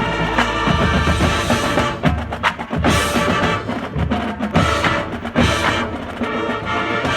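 High school marching band playing its field show, winds holding chords over sharp percussion strikes.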